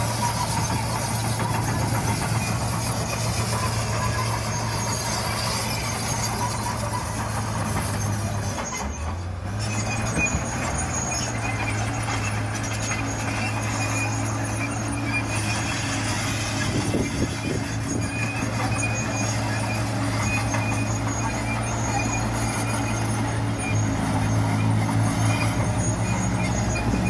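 Heavy construction machine's diesel engine running steadily, with thin high-pitched whining tones over it; the engine note drops briefly about nine seconds in, then picks up again.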